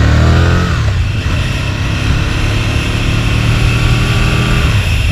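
Aprilia RSV Mille V-twin accelerating under way: the engine note rises, drops with an upshift about a second in, then climbs steadily in the next gear, with another shift near the end.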